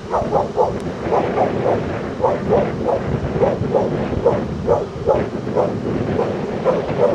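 A dog barking over and over in quick succession, about three barks a second, over wind rumbling on the microphone.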